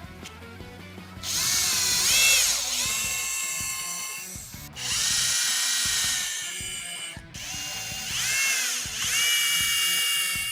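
Handheld power drill running in three runs of a few seconds each; each time the motor whine swoops in pitch as it spins up, then holds steady.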